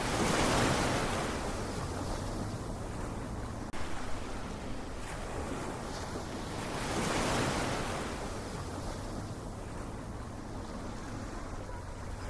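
Ocean surf: two waves break about seven seconds apart, each a swell of rushing water that fades back into a steady wash.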